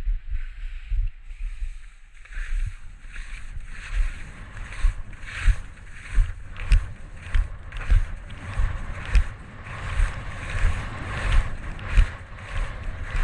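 Skis scraping and knocking through a line of closely spaced moguls, a swish and thump at each turn, about three turns every two seconds, with the rhythm settling in about two seconds in.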